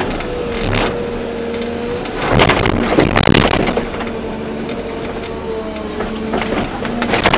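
Volvo EC240B excavator running with a steady hydraulic and engine whine, while its bucket scrapes and clatters through soil and stones from about two seconds in for nearly two seconds, and again briefly near the end.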